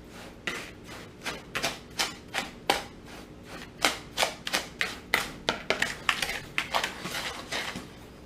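A utensil stirring dry powdered detergent mix (borax, washing soda, citric acid and salt) in a bowl: irregular clinks and scrapes against the bowl, about two or three a second.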